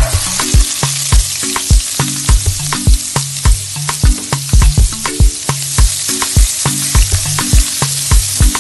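Chicken frying in a hot pan: a loud, steady sizzle that starts suddenly, while a spatula stirs and knocks against the pan about twice a second.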